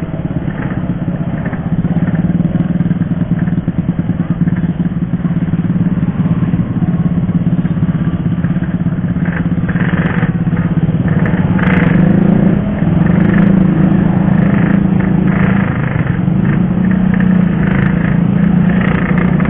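Yamaha RX-King's 135cc two-stroke single-cylinder engine running under way as the motorcycle is ridden. The engine note holds steady, dips briefly about two-thirds of the way through, then carries on slightly higher.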